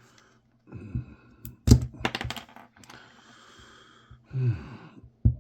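Small plastic power-tool switch being pried and cracked open by hand: a string of sharp clicks and snaps, the loudest cluster about two seconds in, with scraping in between.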